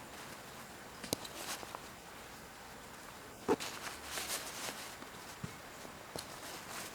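Scattered knocks and rustling, like footsteps or the handling of gear. The loudest knock comes about three and a half seconds in and is followed by a second of rustling.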